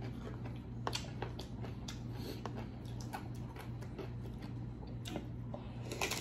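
Close-up mouth sounds of someone chewing a bite of shrimp ceviche tostada: scattered wet clicks and small crunches, with a denser run of them near the end as another bite is taken. A steady low hum runs underneath.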